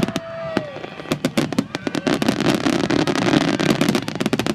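Aerial fireworks crackling: a rapid, dense run of sharp pops that thickens from about a second in into an almost continuous crackle.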